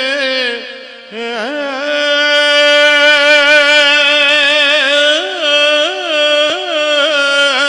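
Sikh kirtan: a male voice singing long, held notes with wavering ornaments, dipping briefly about a second in before settling on a sustained note.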